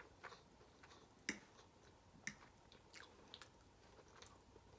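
Close-miked chewing of breakfast food: soft, sparse mouth sounds with a few sharp wet clicks, the loudest about a second in.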